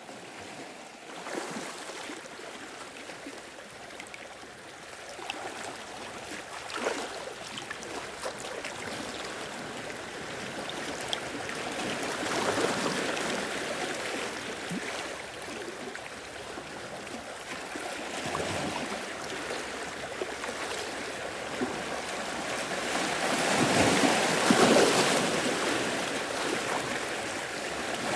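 Sea waves washing in and drawing back in slow surges, with a louder surge about twelve seconds in and the loudest one near the end.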